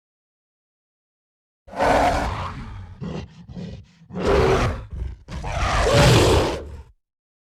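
A large animal roaring: three long, loud roars with a few short grunts between the first two, starting about two seconds in after silence and ending just before the end.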